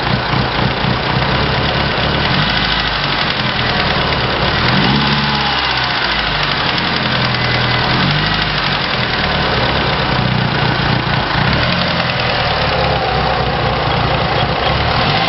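Mitsubishi Lancer Evolution's turbocharged four-cylinder engine idling, with a fast, regular ticking noise over the engine note.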